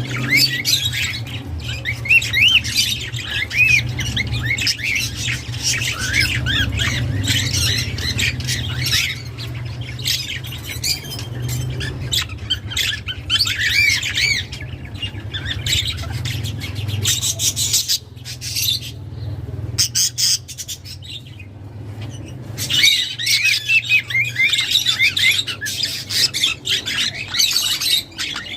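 Budgerigars chattering and warbling: a dense run of quick squawks and chirps, which thins out for a few seconds past the middle and then picks up again.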